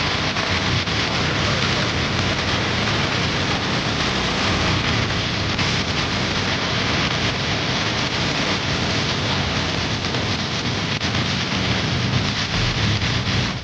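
Loud, steady rushing noise like heavy rain, which cuts off abruptly at the end.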